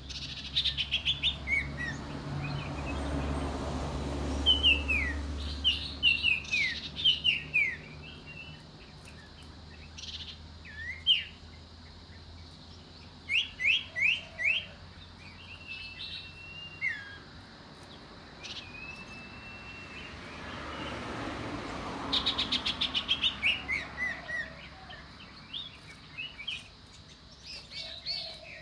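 Iora calling: runs of quick, falling whistled notes and, in the middle, two long steady whistles. A low rushing noise swells twice behind the calls, once early and once near the end.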